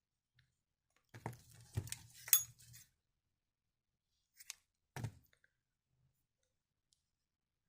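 Handling noises on a tabletop: a cluster of small clicks and knocks about a second in, the sharpest a light clink, then two more brief knocks a few seconds later.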